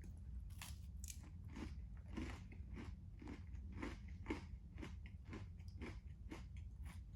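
Someone chewing a crunchy granola bar close to the microphone, with crisp crunches about twice a second, over a steady low hum.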